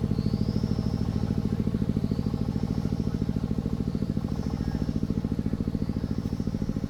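Single-cylinder diesel engine of a công nông farm vehicle running steadily with a rapid, even beat. A faint high rising whistle repeats about every two seconds.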